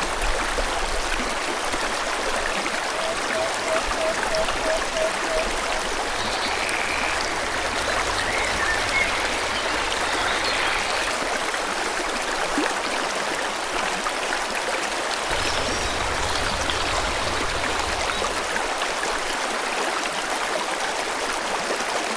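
Steady rush of a flowing forest stream, with birds chirping here and there. About three seconds in comes a quick run of about eight short, evenly spaced low notes.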